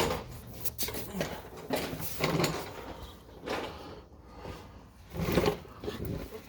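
Irregular clanks, clicks and scraping of hand tools and exhaust parts being worked on under a car, with louder bursts about two and five seconds in.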